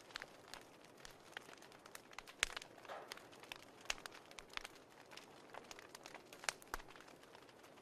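Wood fire crackling: faint, irregular pops and snaps over a low hiss.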